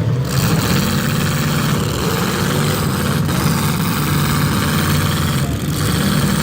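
Several demolition derby car and truck engines running and revving at once, a loud continuous din.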